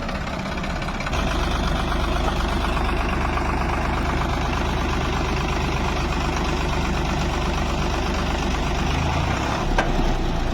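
Heavy vehicle's diesel engine running, taking on more load about a second in with a deeper, louder note, then easing off near the end. A sharp click comes just before the end.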